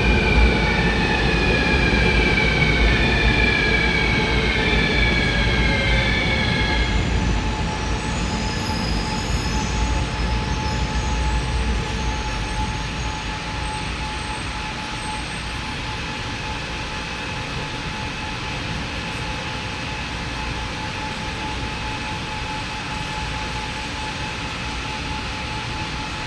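Taipei Metro Circular Line train arriving at a station. Its electric motors whine in a string of falling tones as it brakes through the first seven seconds or so. The running rumble then fades to a steady hum as the train comes to a stop.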